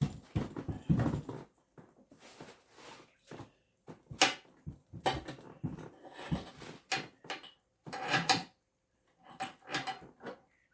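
Irregular knocks, clunks and scrapes of equipment being handled and fitted, with a sharper knock about four seconds in.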